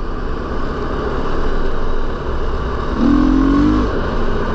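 450cc four-stroke single-cylinder dirt bike engine running on the move, with a short rise in revs about three seconds in that drops away just before the end.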